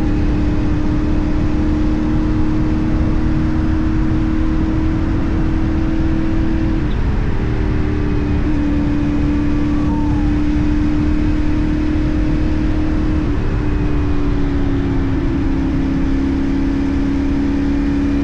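CFMoto 450NK parallel-twin engine running at a steady cruising speed, with heavy wind and road rush. The engine note shifts slightly in pitch a few times, with small throttle changes.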